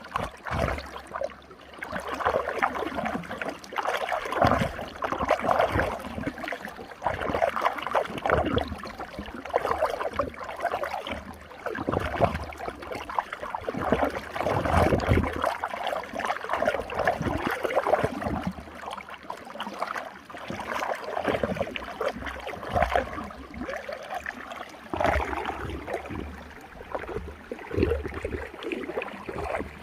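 Running stream water swirling and gurgling through a whirlpool, with a continuous rush that surges and eases irregularly every second or two.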